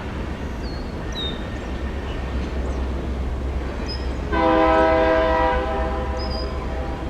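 Diesel locomotive horn sounding one chord blast of about a second, over the steady low rumble of the train, the chord fading away afterwards.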